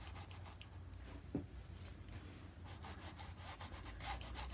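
Paintbrush scrubbing paint onto the painting surface in quick, repeated short strokes, faint and scratchy.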